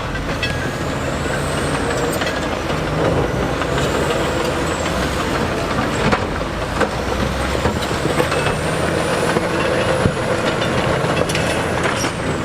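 Heavy diesel earthmoving machinery working, its engine running steadily under a dense clatter with scattered knocks. A faint high whine slides down and up in pitch.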